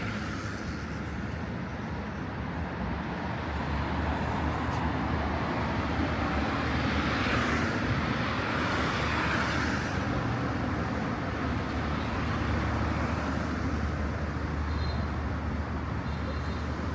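Steady road traffic on a city street, with a vehicle passing by that swells louder about halfway through.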